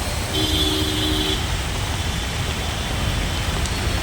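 Road traffic with a steady low rumble of vehicle engines and tyres. A vehicle horn sounds once near the start, lasting about a second.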